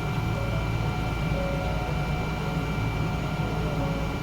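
Steady cabin noise inside a Boeing 777-200 after landing: a low rumble with a thin steady whine above it.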